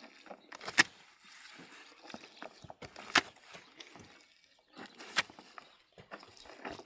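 Three sharp knocks about two seconds apart, among quieter scraping and rustling.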